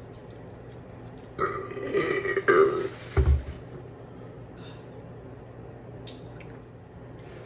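A person burping loudly, one drawn-out belch in two pushes, followed by a short dull thump.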